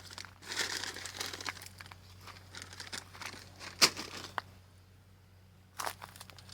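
Irregular rustling and crinkling from hands working with parts while fitting a pipe connection, with one sharp click about four seconds in.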